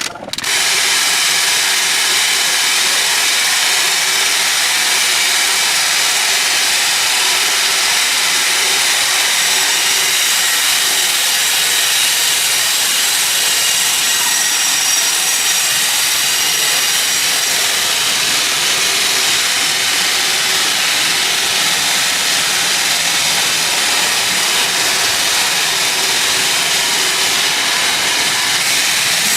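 Sawmill saw cutting through a teak log: a loud, steady, mostly high-pitched noise with faint held tones, running without a break.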